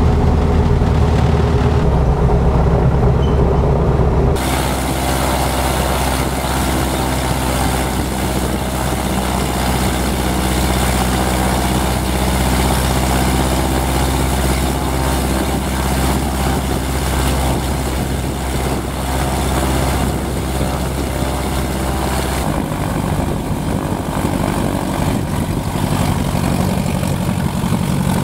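Lancair 360's four-cylinder piston aircraft engine and propeller running steadily. The sound shifts about four seconds in and again near the end.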